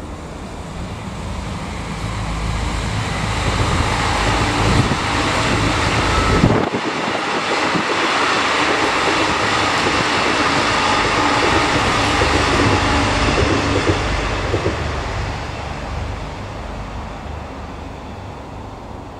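Irish Rail 29000 class diesel multiple-unit passing at speed: the noise of its engines and wheels on the rails builds to a loud, steady rush for several seconds, then fades as the train draws away.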